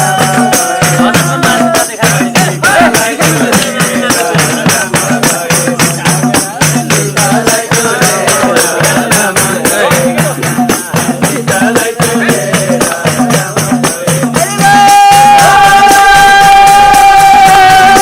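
A Nepali devotional folk song about the Ramayana, played live with a fast, steady jingling percussion beat under a wavering sung melody. A long steady held note comes in at about three quarters of the way through.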